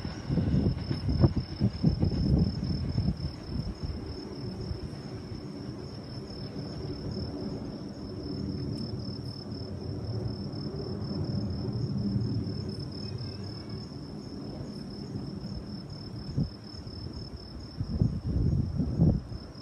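Crickets chirring in a steady, fast-pulsing high trill. Strong wind gusts buffet the microphone for the first few seconds and again near the end, over a steady low rumble.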